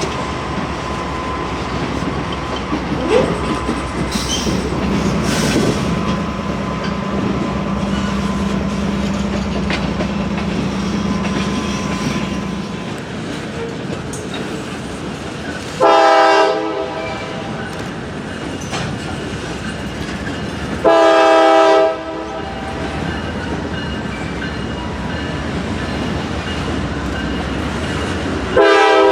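A diesel freight train is rolling slowly with steady wheel and rail noise and the locomotive's engine running. Its horn sounds two blasts of about a second each in the middle, and a third blast begins right at the end.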